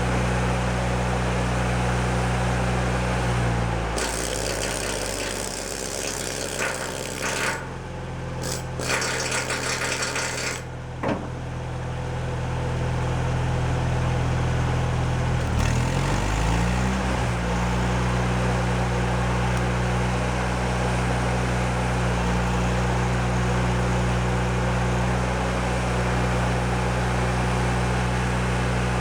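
Engine of a Miller Trailblazer engine-driven welder running steadily. About four seconds in it drops to a lower speed, with a hissing crackle over it until a sharp click near 11 s. Around 16 s it speeds back up to its earlier steady speed.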